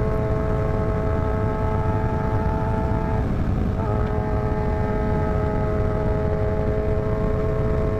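Motorcycle engine held at steady revs while riding, with heavy low wind rush over it. The engine note wavers briefly a little over three seconds in, then settles back to the same pitch.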